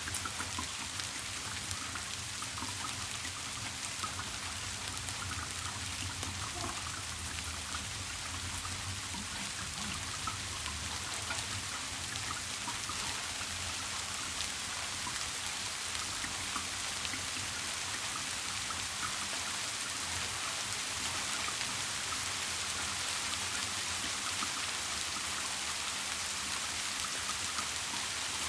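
Steady rain falling, an even hiss with individual drops ticking through it, over a faint low steady hum.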